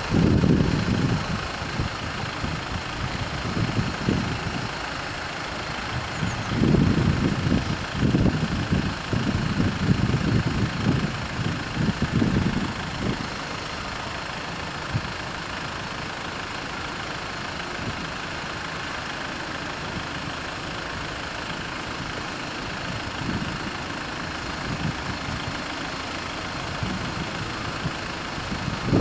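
Road vehicles idling and passing, with low engine rumbles swelling and fading several times over a steady background hum.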